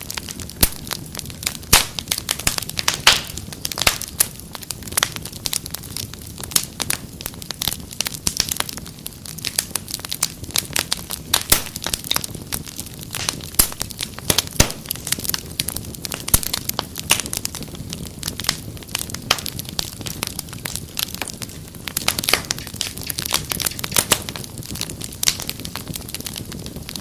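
Wood fire crackling in a fireplace: many irregular sharp pops and snaps, several a second, over a low steady rumble of the flames.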